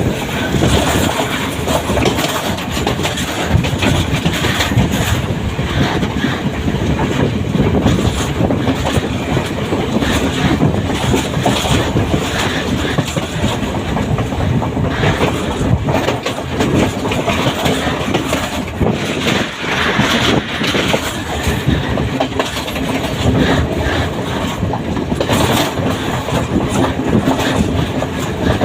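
Train running on the rails: a loud, steady rumble with a dense clatter of wheels knocking over the track.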